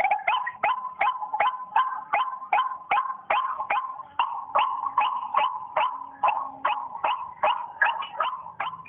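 White-breasted waterhen calling: an even, rapid run of harsh 'kru-ak' notes, about two to three a second, each dropping sharply in pitch.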